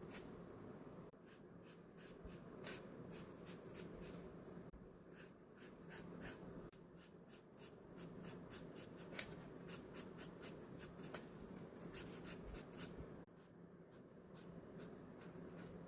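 Pen nib scratching across diary paper as ink lettering and sketch lines are drawn: faint, quick strokes in runs, with short pauses between them.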